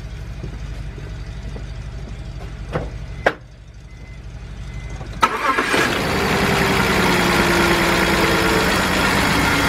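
BMW 328i engine started a little over five seconds in, after a couple of clicks, then running on at a steady idle. The misfire is still there after the ignition coils of cylinders 3 and 4 were swapped.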